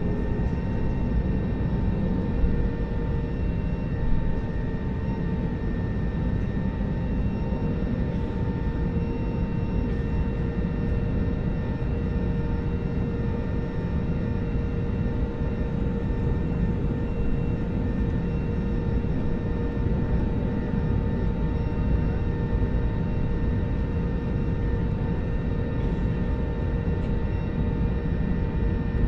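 Jet airliner's engines heard from inside the passenger cabin: a steady rumble with a constant whine held at one pitch.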